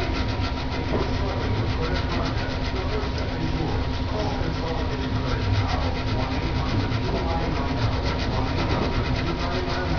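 Sanding during a table repair: abrasive rubbing in rapid, even strokes over a steady hum.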